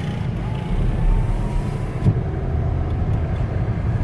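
Low rumble of a vehicle on the move, with a faint engine tone rising steadily in pitch over the first two seconds and a single knock about two seconds in.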